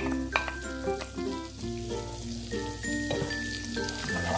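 Chopped garlic and red onion sizzling in melted butter, with a few sharp clicks of the spatula and plate at the start and the spatula stirring the pan near the end. Background music with a steady bass line plays throughout.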